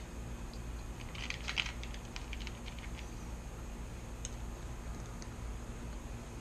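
A quick run of small clicks and taps, then a few single ticks: small bolts being handled and started by hand into the fuel pump plate.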